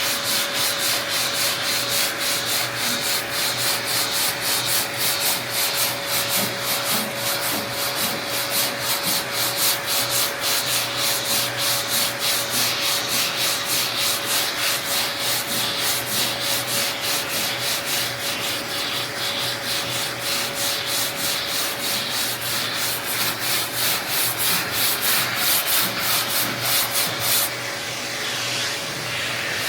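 80-grit sandpaper on a hand sanding block worked across a car fender in rapid, even back-and-forth strokes, block sanding to level the panel's high and low spots. Near the end the strokes give way to a steady hiss.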